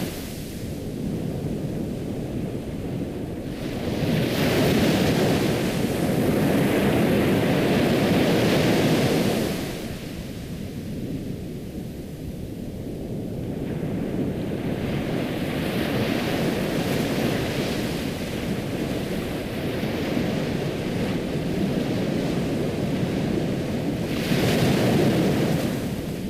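Ocean surf washing in and out, the noise of the waves rising in long slow swells and ebbing between them.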